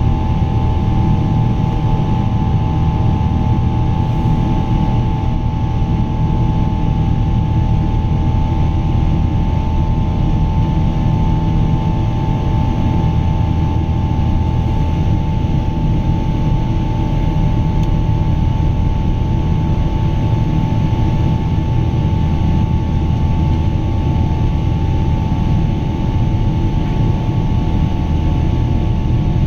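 Pratt & Whitney PW4000 turbofan engines of a Boeing 777-200 running at steady climb power: an even, loud drone with a low rumble and a steady fan tone.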